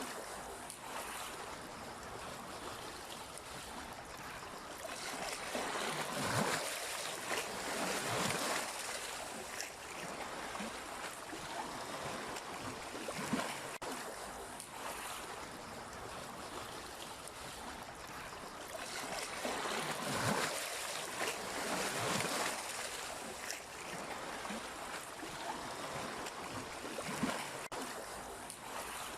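Sea waves washing onto the shore, a steady wash of water with two larger waves surging in, one about six seconds in and one about twenty seconds in, and small splashes between.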